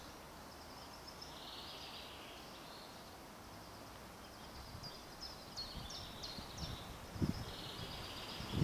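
Faint outdoor background with small birds chirping: high, short, falling chirps that come thicker in the second half, and a low thump near the end.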